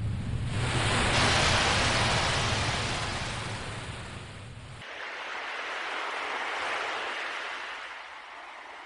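Ocean waves washing in: a hiss of surf that swells and eases twice. A deep low rumble under the first swell cuts off abruptly about five seconds in.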